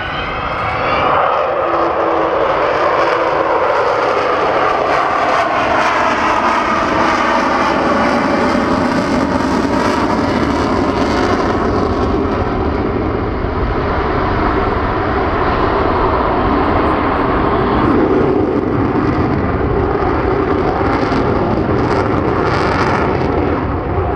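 Avro Vulcan bomber's four Rolls-Royce Olympus turbojets flying past at power, a loud, steady jet roar that swells in the first second. Faint tones slide down in pitch over the first few seconds as the aircraft passes.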